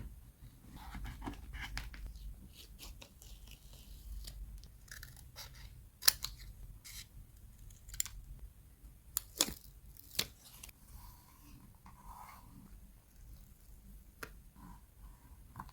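Scissors cutting paper: a series of sharp snips and clicks, the loudest about six, nine and ten seconds in, between soft paper rustling.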